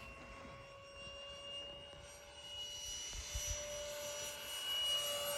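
Radio-controlled F-4 Phantom model jet, a steady whine that rises slightly in pitch and grows louder through the second half.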